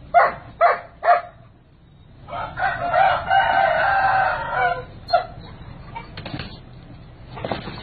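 A rooster crows once, one long crow beginning about two seconds in. Before it comes a quick run of three short barks from a dog.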